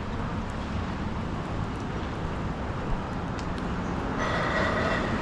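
City street traffic: a steady rumble of passing vehicles, with a steady high whine joining about four seconds in.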